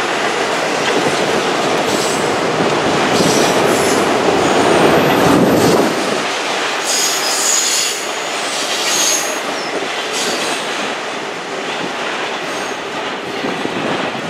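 Freight train of autorack cars rolling past on a curve: a steady rumble and clatter of wheels, with high-pitched wheel squeal coming and going twice. The rumble is loudest for the first six seconds and eases after that as the tail of the train passes.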